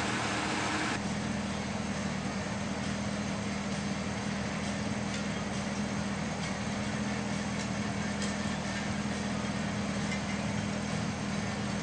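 Corvette C6 V8 engine idling steadily with a low hum.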